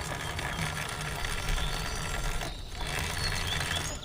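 River Indie electric scooter's drive chain and rear wheel running with a steady mechanical whirr and no clatter, the chain freshly cleaned and greased.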